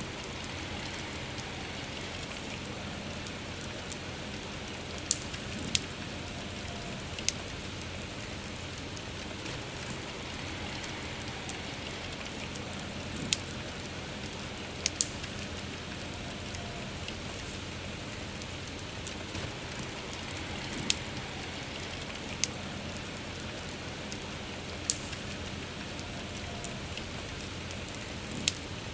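Steady rain falling, with a campfire crackling through it: sharp pops at irregular moments, about a dozen.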